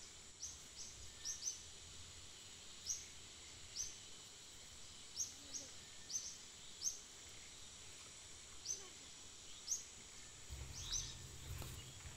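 Small birds chirping: short, high, downward-sliding chirps, singly and in quick pairs, at irregular intervals over a steady high-pitched background tone. A low rumble comes in near the end.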